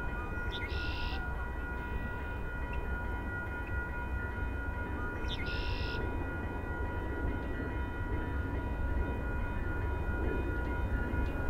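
Distant VIA Rail passenger train approaching, heard as a low steady rumble with faint steady high tones over it. A short, high chirp repeats about every six seconds.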